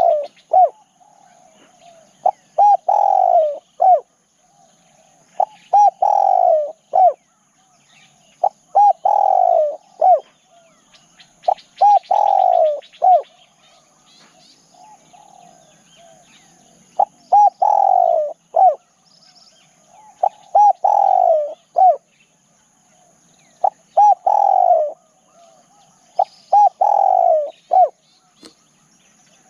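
Spotted dove cooing: the same phrase repeats about every three seconds, nine times over, each a quick pair of short coos, a longer drawn-out coo and a short closing note. Faint chirps of other small birds and a steady high whine run underneath.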